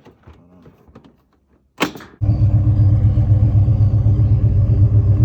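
Chrysler SRT8's Hemi V8 started about two seconds in after a brief crank, then idling steadily.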